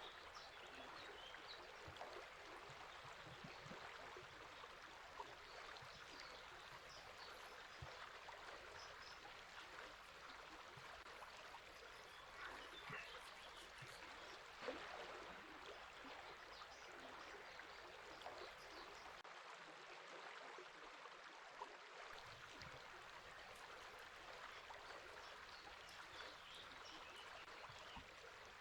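River water flowing steadily, a faint even rush, with small bird chirps scattered over it.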